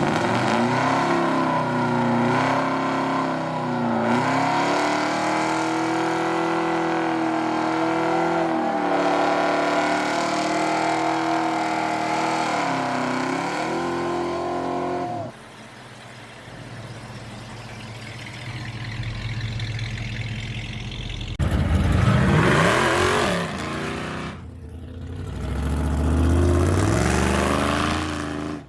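Car engine held at high revs for about fifteen seconds, its pitch wavering and dipping twice, over a hiss of noise, then cut off suddenly. Later a car revs up twice in rising sweeps.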